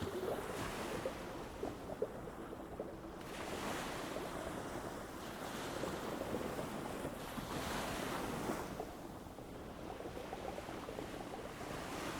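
Ocean surf washing onto a beach, a steady rush of water that swells twice as waves come in, about three seconds in and again near eight seconds.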